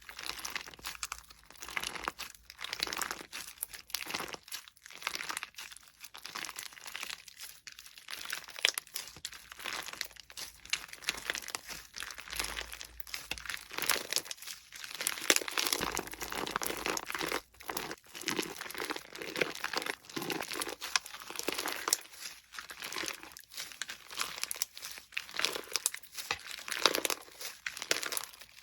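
Slime being squeezed and worked by hand, with crackling and popping in uneven bursts and short pauses between handfuls.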